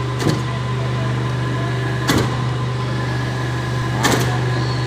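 Hydraulic press machine running with a steady low hum from its motor and pump, and three short knocks about two seconds apart.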